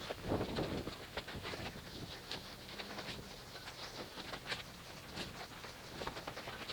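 Faint hand car wash: a wet wash mitt wiping and sloshing on the paint, with scattered light ticks and drips throughout.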